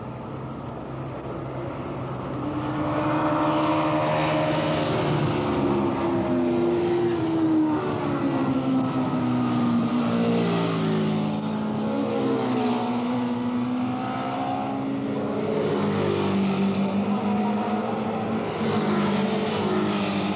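Racing superbike engines revving up and down through the gears as several bikes go by, their pitches overlapping, growing louder about two seconds in.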